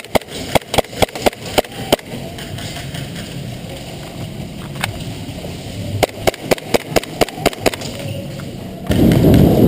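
Airsoft gun firing single shots in quick succession as sharp cracks. There is a run of about ten over two seconds, a lone shot about five seconds in, then another run of about nine. Near the end comes a loud low rumble.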